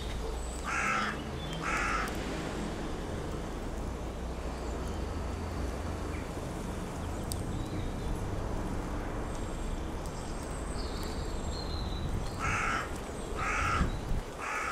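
Harsh calls of a larger bird, twice about a second apart early in the clip and three times about a second apart near the end, over a steady low rumble.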